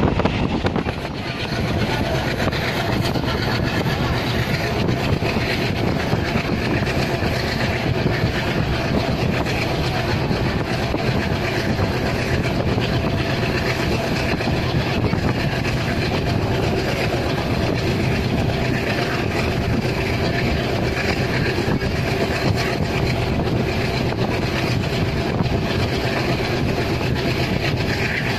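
Train running steadily at speed, heard from inside a passenger coach, with the heavy chugging of its Alco diesel locomotive over the steady rumble of the wheels.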